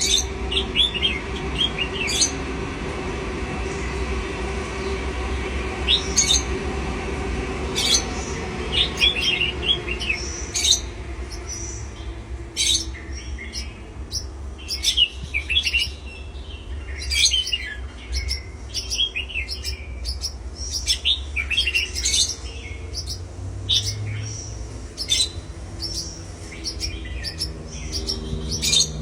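Pet birds chirping and tweeting: many short, sharp, high calls in quick succession, growing busier about halfway through, over a steady low hum.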